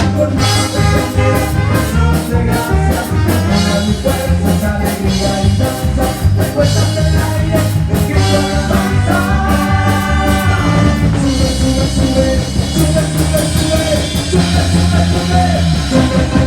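A live band playing upbeat worship music, with drum kit, bass and a singing voice.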